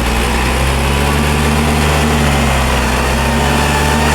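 Isuzu MU-X turbo-diesel engine running steadily at a constant speed, under test for a loud turbo noise whose cause has not been found.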